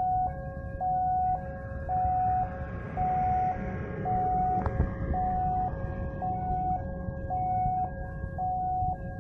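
Railway level-crossing warning alarm sounding ahead of an approaching train: a steady electronic two-tone hi-lo signal, switching between a higher and a lower tone about twice a second. Under it runs a continuous low rumble, and there is one sharp click near the middle.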